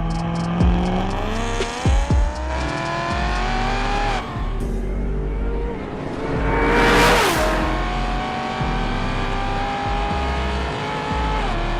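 Supercharged V8 of a Hennessey Exorcist Camaro ZL1 accelerating hard. Its pitch climbs steadily and drops sharply at a gear change about four seconds in, then climbs again to another shift near the end. A loud rushing burst comes around seven seconds in.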